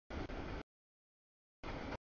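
Freight train cars rolling past a grade crossing, heard only in two half-second chunks of noise, near the start and near the end, with the audio dropping out to dead silence in between.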